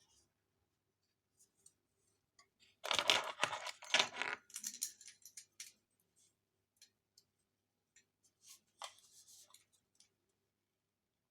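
Beer can being handled for shotgunning, with a loud crackling, fizzing burst of metal and foam about three seconds in that lasts over a second, and a shorter, quieter one near the end, amid small clicks.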